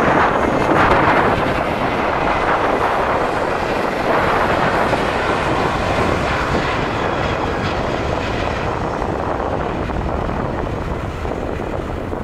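Jet airliner engine noise, a broad steady rush that slowly fades as the aircraft moves away.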